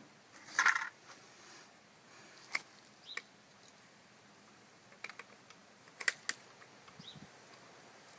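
Faint, scattered small clicks and light knocks, spread a second or more apart, with a short scuffing rustle a little over half a second in.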